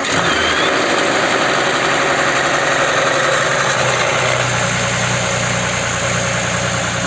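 Audi Q7's 3.6 FSI VR6 engine running at a fast cold idle moments after starting, steady and loud, with the idle settling a little about four seconds in. At this cold stage it runs without the rattle that comes on once it warms, a knock the mechanic suspects is the cam phaser.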